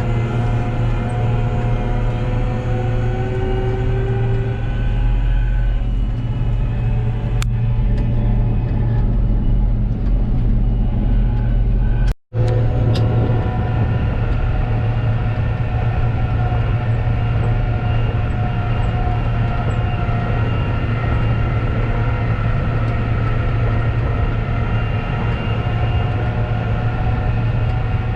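Diesel engine of large farm machinery running steadily under load, a deep drone with a whine of drivetrain tones above it. It cuts out completely for an instant a little past twelve seconds, then carries on the same.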